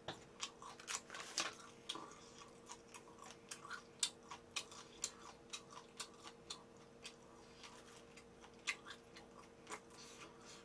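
Close-miked chewing with a string of sharp wet mouth clicks and lip smacks, two or three a second, over a faint steady hum.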